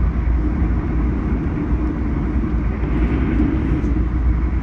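Steady rumble and rolling noise of a moving passenger train heard from inside a Bombardier LRC rail car, the wheels running on the rails at speed.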